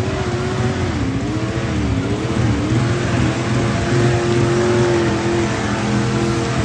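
A motor vehicle engine revving, its pitch rising and falling several times, then held steady at high revs before dropping back near the end.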